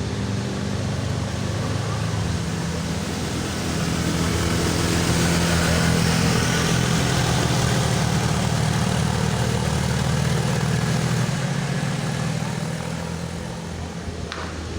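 A motor vehicle's engine running steadily, growing louder a few seconds in and easing off again near the end, with a short click just before the end.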